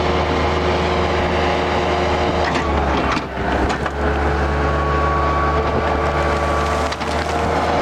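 Skid steer engine running hard as the machine works. The engine note dips and shifts about three seconds in, and a higher steady whine rides over it through the middle.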